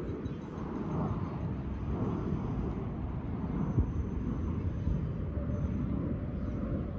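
Steady low rumble of outdoor background noise, with a faint thin high tone in the middle.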